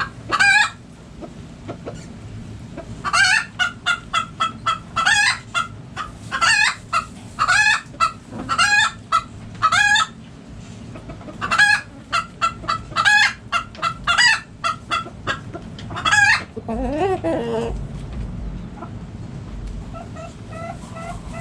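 Backyard hens clucking and squawking: runs of short, loud calls in quick succession, with a few longer squawks. About 17 s in, a lower call rises in pitch, and then the calling goes quieter.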